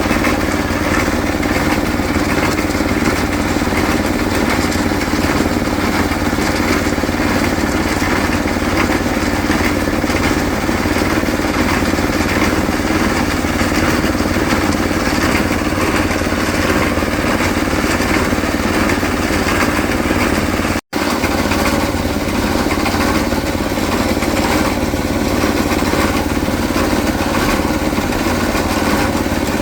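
Small engine of a concrete mixer running steadily at a constant speed. The sound breaks off for an instant about 21 seconds in.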